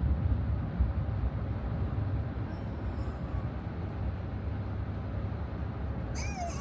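Steady road and engine rumble of a car cruising on a highway, heard from inside the cabin.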